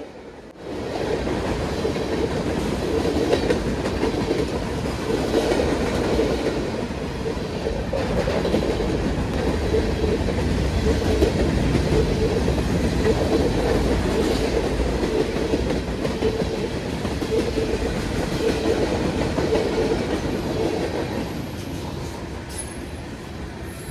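BNSF train rolling past, a steady rumble of steel wheels running on the rails. It starts abruptly about a second in and eases slightly near the end.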